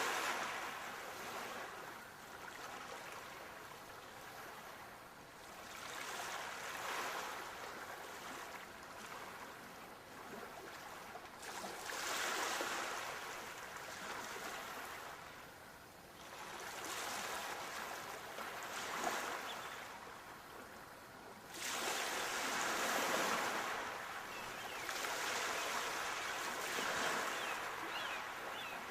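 Sea waves breaking and washing back, each wave a swell of surf hiss that rises and dies away, six in all, about one every five seconds.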